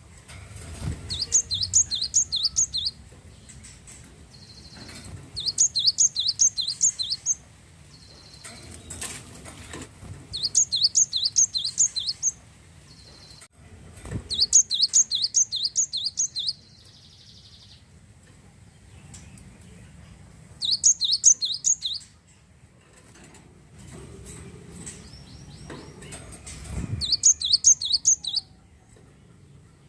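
Glatik wingko, a cinereous tit, singing in six loud phrases. Each phrase is a fast run of repeated sharp, high, two-part notes, about four or five a second, with a few seconds' pause between phrases.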